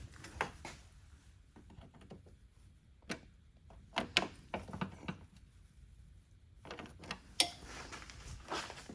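Scattered clicks and light knocks of hand work on the car's parts while bolts are turned in by hand, with a few sharper knocks, the loudest about seven seconds in.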